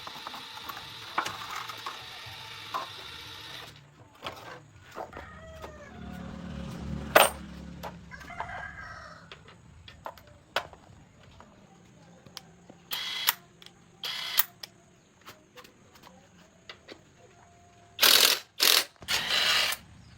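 A rooster crowing with chickens around, and scattered clicks and knocks of tools. Short, loud hissing bursts come several times in the second half.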